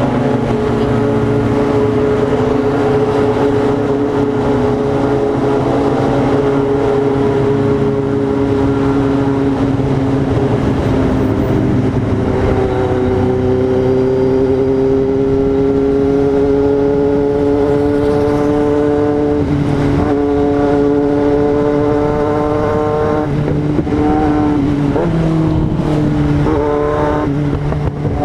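Yamaha XJ6's inline-four engine running under way, its note holding fairly steady and rising gently through the middle, with brief dips a few times near the end.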